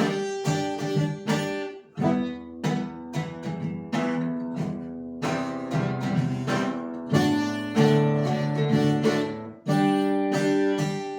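Acoustic guitar (violão) strumming a chord progression in a steady rhythm, changing chord every couple of seconds, with the last chord left ringing. The chord shapes are correct and the strumming is fine, but the chords sound lifeless.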